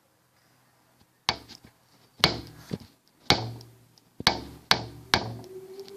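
A run of sharp knocks or bangs, about seven of them, each half a second to a second apart, starting about a second in, each with a short ringing tail.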